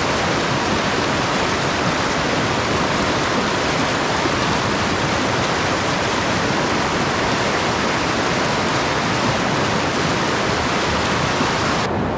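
Mountain stream rushing steadily over rocks, a loud even wash of water. Just before the end the sound changes abruptly.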